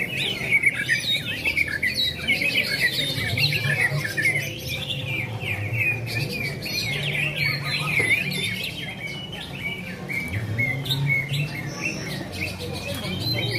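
Many caged contest songbirds singing at once: a dense, continuous chorus of overlapping chirps and trills, with a low hum coming and going underneath.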